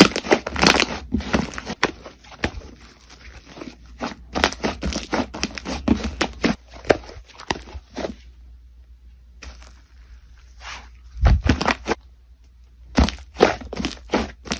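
Crunchy slime being squeezed and pressed by hand, giving dense runs of sharp crackling pops that come in bursts, with two short pauses, one about eight seconds in and one near the end.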